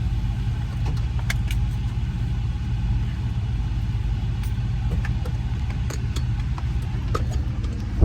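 Truck engine running steadily, with a few faint clicks and rattles over it.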